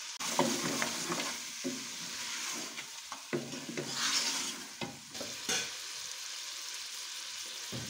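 Chicken pieces, onion and spices sizzling in butter in a metal pressure cooker pot, stirred with a wooden spoon that scrapes and knocks against the pot several times.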